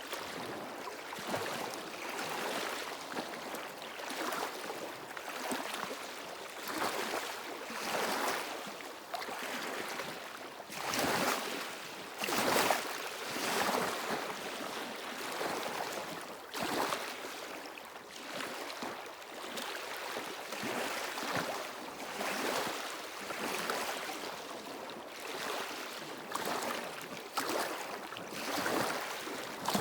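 Small waves washing in over a stony shore, each one a short rush of water over the stones, coming every second or two. A louder wash comes a little under halfway through.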